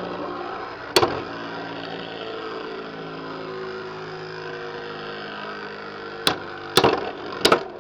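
Two Beyblade X spinning tops whirring in a plastic stadium, a steady hum, with one sharp clack about a second in and several clacks near the end as the tops strike each other or the stadium wall.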